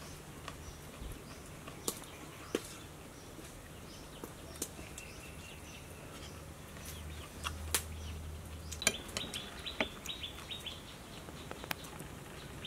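A bird chirping in quick runs of short notes, mostly in the second half, over scattered sharp clicks and mouth sounds of someone eating: chewing and a spoon.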